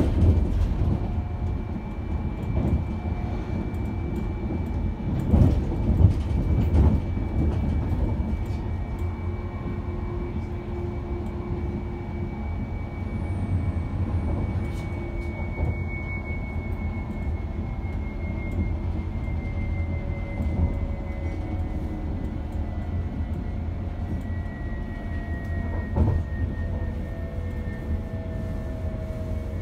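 Inside a moving passenger train: a steady low rumble of the wheels running on the track, with heavier knocks around five to seven seconds in and again near the end, and a faint whine slowly falling in pitch.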